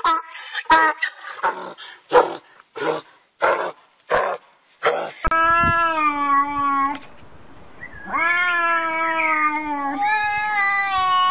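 A donkey brays in a run of short, evenly spaced hee-haws. About five seconds in, two tabby cats take over with long, wavering yowls at each other: the threat caterwauling of a standoff before a fight.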